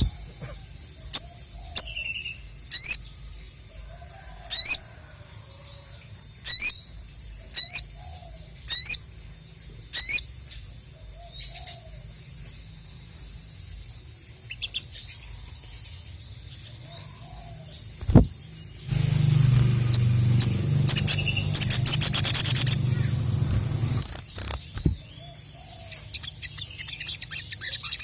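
Ruby-cheeked sunbird (sogon) calling: a series of loud, sharp whistled notes about once a second, then quieter scattered chips, and a fast chattering twitter near the end. For several seconds past the middle a loud rustling noise with a low hum covers the song.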